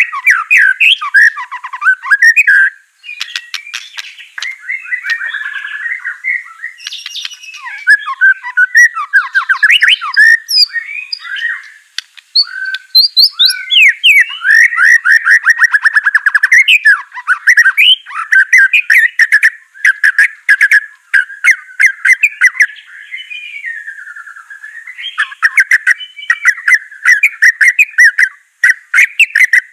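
White-rumped shama (murai batu) singing a loud, continuous, varied song of quick whistled phrases and fast trills, broken by runs of sharp clicking notes.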